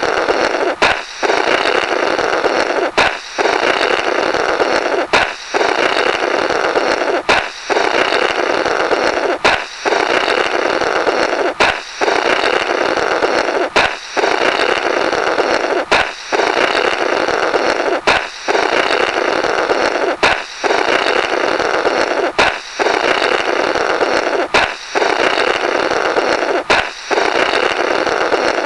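Comic balloon-break effect repeated over and over: a rubber balloon pops with a sharp snap, then a rasping, flapping 'blorrrt' of air blown through the burst rubber lasts about two seconds. There is a short pause, and the cycle starts again about every two seconds, thirteen times.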